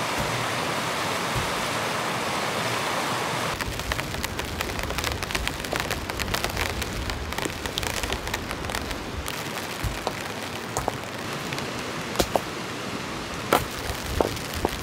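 Rain falling: a steady hiss, and from about three and a half seconds in, many sharp taps of individual drops hitting close by over it.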